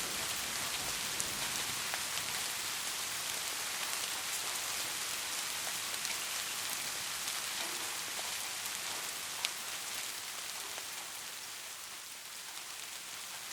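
Steady rain falling, an even hiss with scattered individual drop ticks and one sharper tick about nine and a half seconds in.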